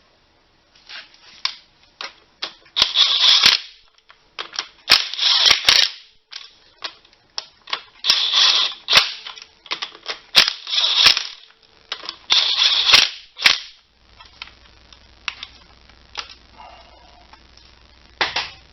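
Impact wrench running in clutch bolts in about five short bursts of rapid hammering, each about a second long, with clicks between them. The bursts stop about two-thirds of the way through.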